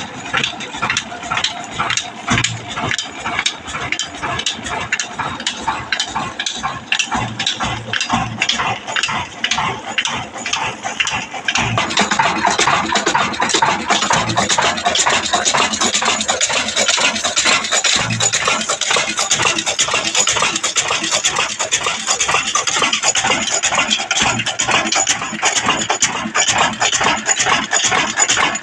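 Old 22 hp heavy diesel engine running with a steady, rapid, even beat; it grows louder about twelve seconds in.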